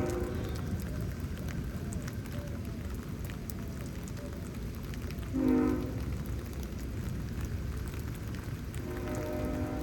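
Steady rain falling in a thunderstorm. A horn chord of several steady tones sounds briefly about halfway through, and starts again near the end.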